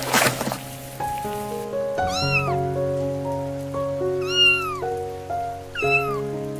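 Three high, arching animal cries, each rising and then falling in pitch, over soft background music. Rain patters briefly at the start.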